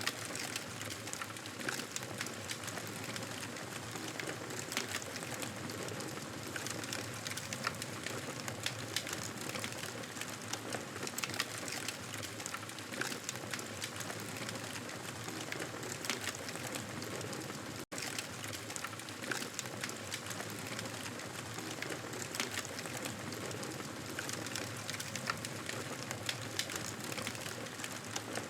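Fireplace crackling: a steady hiss dotted with many small sharp crackles. The sound drops out for a split second about two-thirds of the way through.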